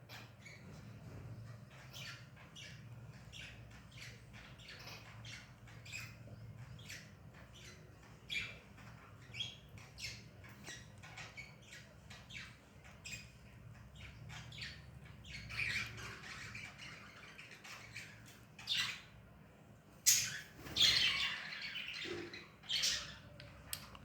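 Baby budgerigar chicks squawking in many short, raspy calls, the begging calls of chicks being hand-fed, with several louder bursts of calling in the second half.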